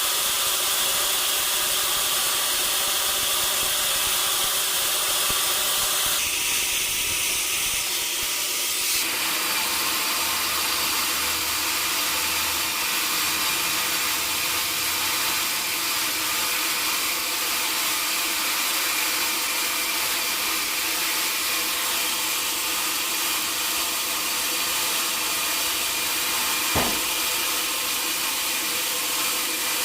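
Sawmill saw cutting through a log: a steady hissing noise with faint steady tones beneath, and a single sharp knock near the end.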